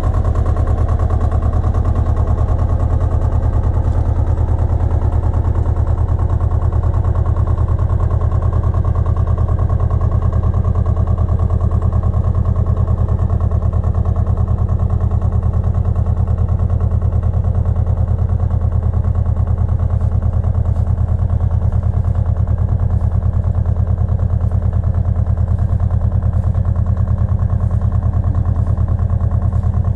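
Pasquali 980 EX two-wheel tractor's engine running steadily.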